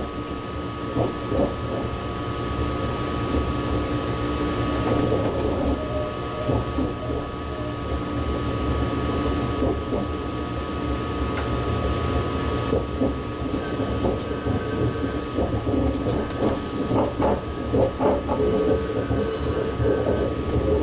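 ICE high-speed train heard from inside the driver's cab while running: a steady rumble of the running gear under a constant high tone, with irregular knocks of the wheels over rail joints. A brief high-pitched squeal comes near the end.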